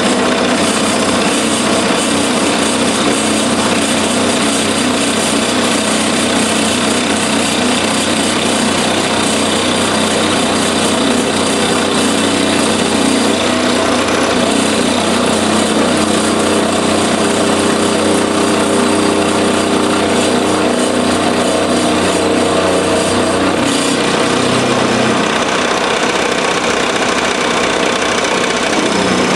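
Milling machine running and cutting metal stock: a loud, steady machining noise with a hum whose pitch changes slightly near the end.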